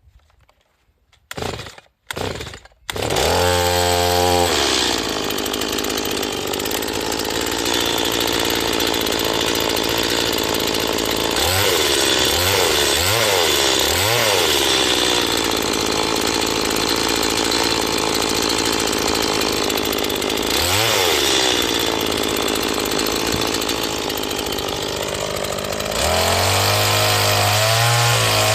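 A new Stihl MS 180 two-stroke chainsaw is started for its break-in run. It gives two short bursts, catches about three seconds in, and then runs loudly, with the revs dipping and rising a few times in the middle. It settles into a lower, louder note near the end.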